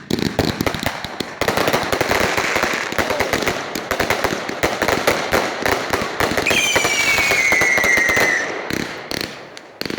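Fireworks going off in a dense, rapid crackle of many pops for several seconds. A whistle falling in pitch sounds through the crackle about two-thirds of the way in.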